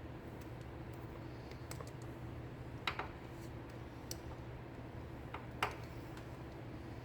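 Hand tools working the cotter pin out of the rear brake master cylinder's pushrod clevis: a few scattered sharp metal clicks, the loudest about three seconds in and again near six seconds, over a steady low hum.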